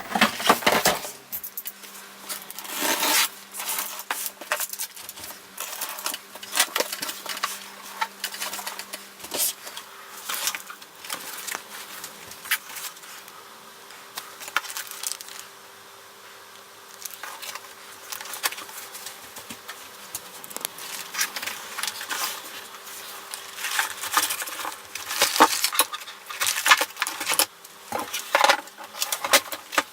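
Parts of a Creality Ender 3 3D printer and its foam and cardboard packing being taken out of the box and handled: irregular clinks and knocks of metal parts, with rustling and scraping in between. It gets busier near the end, and a faint steady hum runs underneath.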